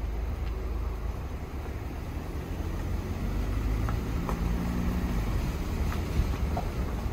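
Steady low rushing rumble of the rain-swollen Nilüfer creek in flood, with a faint hum joining about three seconds in and a few light ticks.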